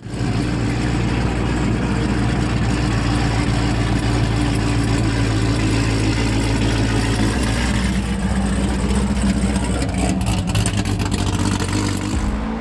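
A car engine running steadily, its pitch shifting slightly about seven or eight seconds in, with a few sharp clicks near the end.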